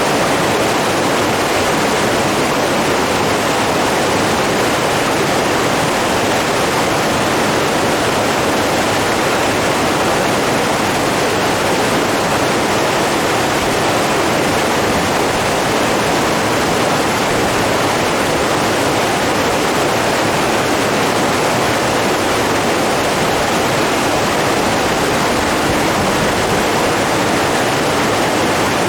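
Steady, unbroken rush of running water, its level unchanging throughout.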